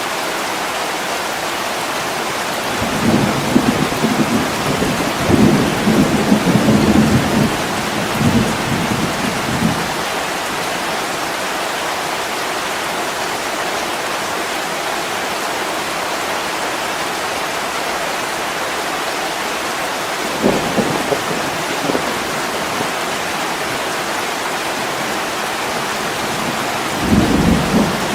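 Steady heavy rain with rolling thunder: a long rumble from about three to ten seconds in, a short one about two-thirds through, and another starting just before the end.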